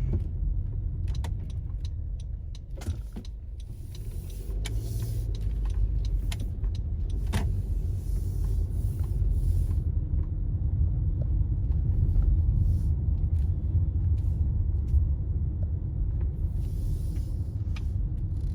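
A steady low rumble with scattered sharp clicks and a few brief stretches of hissy rustling.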